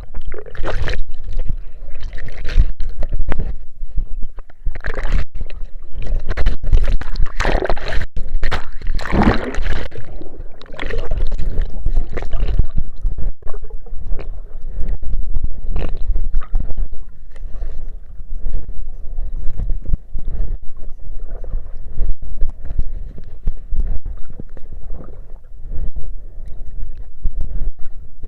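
Water sloshing and gurgling around a cheap action camera at the river surface, with heavy low rumble and irregular knocks and splashes.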